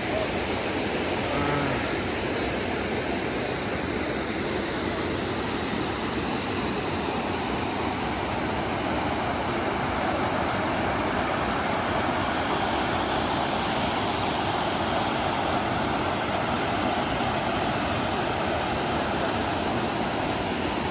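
Waterfall pouring into a mountain stream: a steady, unbroken rushing of falling water.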